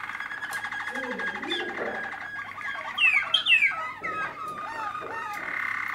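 Malinois (Waterslager) canary singing: a fast, steady rolling trill, then louder rising and falling gliding notes about halfway through before the trill resumes.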